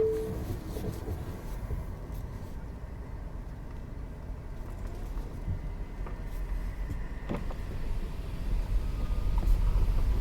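Low rushing rumble of a Tesla Model 3 moving slowly. It grows louder near the end and cuts off suddenly. A steady beep tone fades out at the very start.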